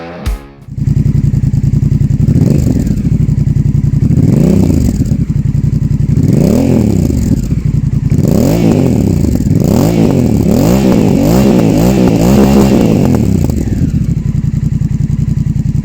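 Honda CMX1100 Rebel's parallel-twin engine running through a GPR aftermarket exhaust, starting about a second in: it idles, is blipped a couple of times with single rises and falls in pitch, then is revved in a run of quicker blips one after another.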